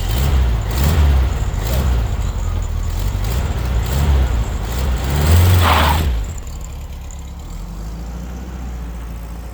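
Air-cooled flat-four engine of a Volkswagen Beetle running and revving in several surges, the loudest about five and a half seconds in, then settling to a steadier, quieter note.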